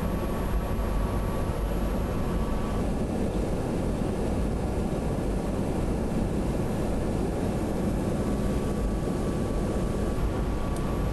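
Steady in-flight cabin drone of an E-3A AWACS aircraft: engine noise and the rush of air, with no let-up.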